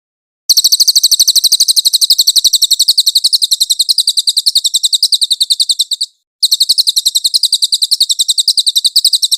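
Cililin bird singing: a rapid, high-pitched trill of about a dozen even notes a second. It starts about half a second in, breaks off briefly near six seconds, then starts again.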